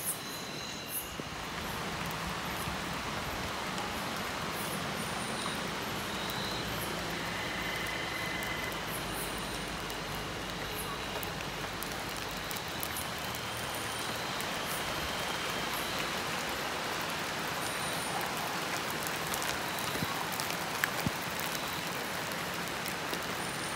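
Light drizzle falling: a steady, even hiss, with faint, short, high-pitched calls now and then in the background.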